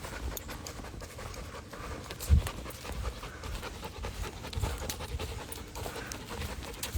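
A Belgian Malinois panting steadily on a walk, with footsteps and a single heavier thump about two and a half seconds in.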